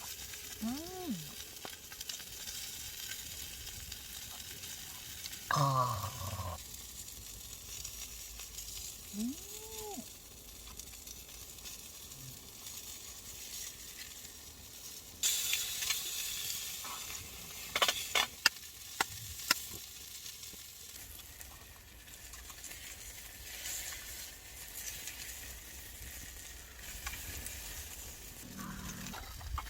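Chicken galbi sizzling steadily on a hot elvan-stone grill plate over a wood fire. A brief louder sound comes about six seconds in, and a few sharp clicks come around the middle.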